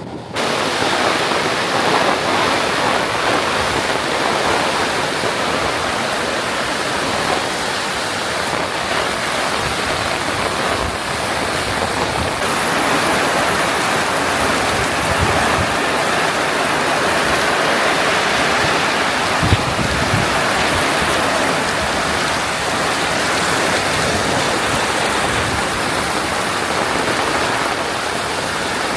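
Heavy tropical rain falling steadily, a dense even hiss of downpour.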